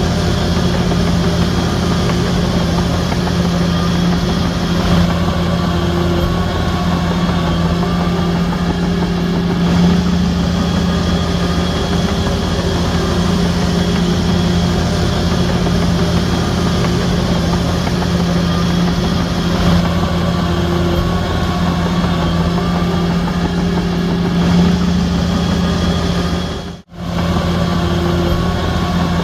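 Diesel engine of a Shantui DH17C3 bulldozer running steadily with a low, even drone. The sound cuts out for a moment near the end, then resumes.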